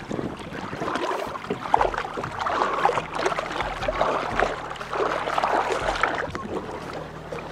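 Water splashing and rushing against the hull of a small sailing dinghy as it moves, irregular and continuous.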